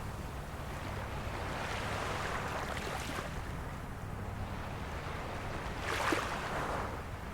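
Small waves of a calm sea lapping on the shore: a soft wash about two to three seconds in and a sharper splash about six seconds in, over a steady low hum.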